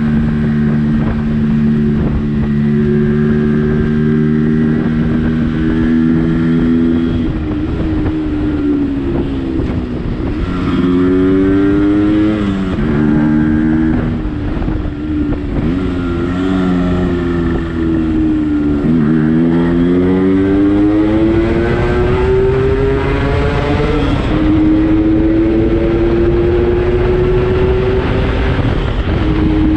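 Yamaha RX135's two-stroke single-cylinder engine being ridden. Its pitch holds steady, then drops and climbs several times as the rider shifts and accelerates, with a long rising rev in the second half.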